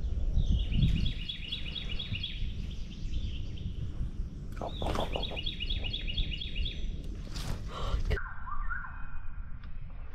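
A songbird singing a fast trill of short, high, repeated notes, twice about four seconds apart, with a different short series of rising notes near the end. A low rumble and a couple of sharp knocks run underneath.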